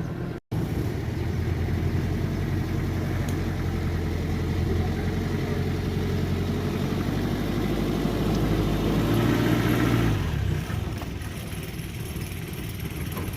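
Diesel engine of an earthmoving machine running steadily under work. It cuts out for a split second about half a second in, and its note drops about ten seconds in.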